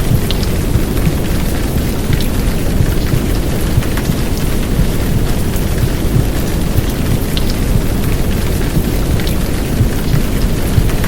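Heavy downpour of rain: a steady dense hiss with a deep low rumble beneath it and scattered sharper drop ticks.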